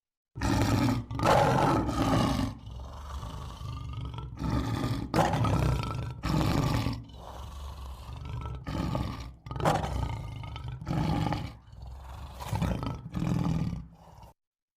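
A big cat roaring: a series of about ten rough, deep roars and grunts of varying length, with short pauses between them, ending abruptly just before the end.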